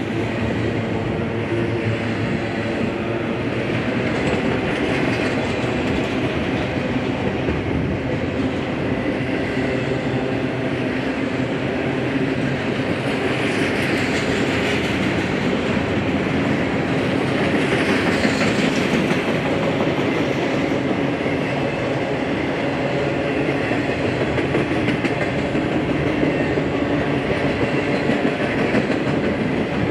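BNSF freight train rolling steadily past, its cars' wheels running on the rails, with a little swell in the sound twice in the middle.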